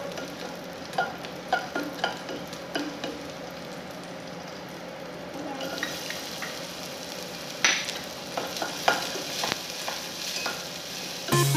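Garlic sizzling as it fries in a stainless steel pot, with a slotted spatula stirring and clicking against the pot. A little past halfway, chopped onion goes in and the sizzling gets louder.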